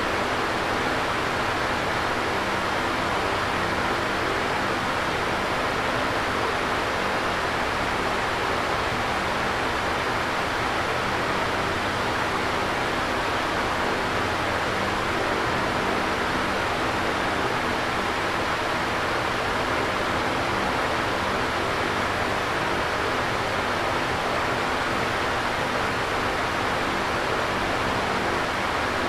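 Electric fan running steadily: an even whoosh of moving air with a faint low hum underneath.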